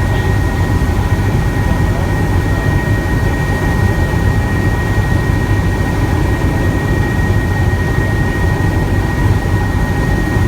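Helicopter engine and rotor noise in flight: a loud, steady rumble with a thin, steady high whine above it.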